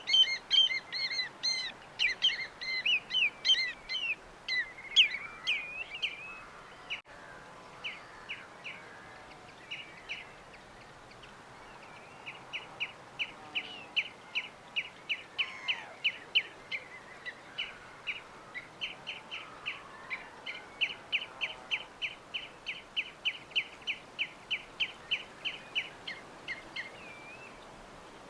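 Small songbirds chirping: a dense burst of overlapping song for the first several seconds, then scattered calls, and near the end a long run of the same high chirp repeated about three times a second, over a faint steady hiss.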